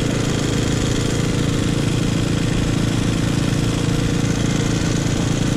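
Small motorbike engine idling steadily at an even pitch.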